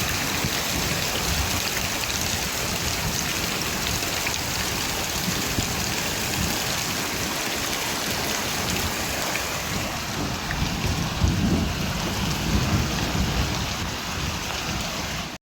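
Steady heavy rain with low rumbles of thunder, one swelling again about two-thirds of the way through. The sound breaks off abruptly at the very end.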